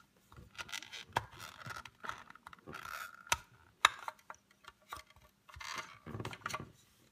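Small plastic toy parts being handled: a doll being pulled off the chair of a Play-Doh hair salon playset, with irregular plastic clicks and short scrapes, the sharpest clicks about a third and halfway through.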